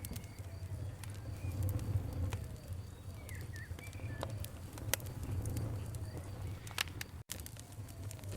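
Campfire crackling, with sharp pops scattered over a steady low rumble of the burning wood, and birds calling in the background, a few short chirps about three and a half seconds in. The sound drops out for an instant a little past seven seconds.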